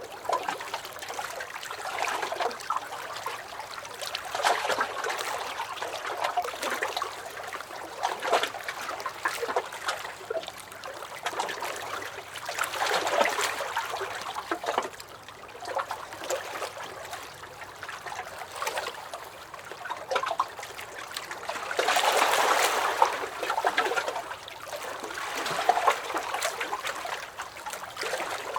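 Lake water lapping and sloshing against a dock, small irregular splashes and gurgles coming in uneven swells, one larger surge about three quarters of the way in.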